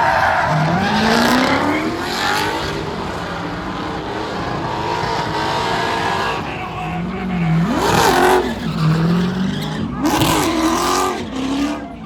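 A car's engine revved hard during a burnout run, its pitch swinging up and down again and again over the noise of spinning tyres.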